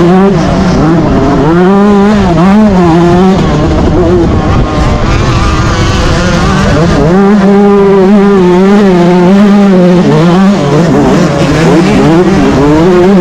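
Yamaha YZ125 two-stroke single-cylinder engine racing hard, its revs repeatedly rising and falling with throttle and gear changes. It drops back briefly about four seconds in before pulling hard again.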